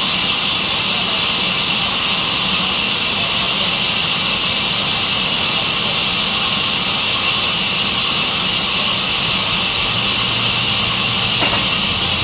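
Sawmill saw running, a loud steady hiss that does not change, with a brief tick about eleven seconds in.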